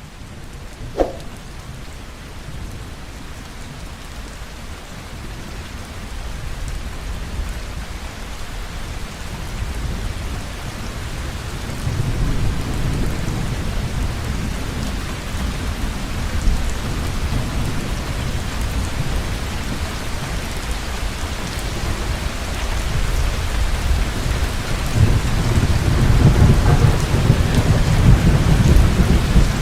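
Heavy rain falling steadily, fading up and growing louder, with thunder rumbling low twice: once about twelve seconds in and again, loudest, near the end.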